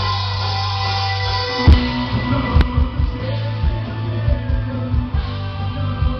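Live rock band playing: electric guitar and bass hold sustained notes, then the drum kit comes in with heavy kick and snare hits about a second and a half in.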